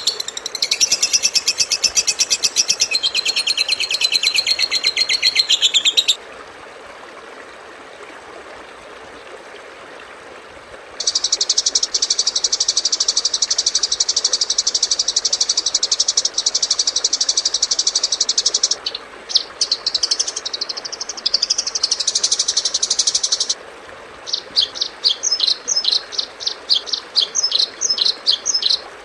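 Recorded songbird calls used as masteran tutoring material: high, rapid buzzy trills and chatters in separate bursts. One trill fills the first six seconds, a long steady trill starts about eleven seconds in, there is chattering around twenty seconds, and quick repeated chips come near the end.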